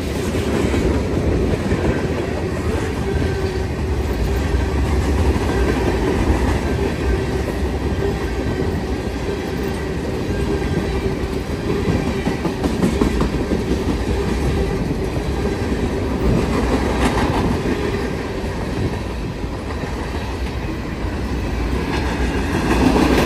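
Freight train cars (covered hoppers, tank cars and container well cars) rolling past close by: a steady rumble and clatter of steel wheels on the rails, with a faint steady tone above it.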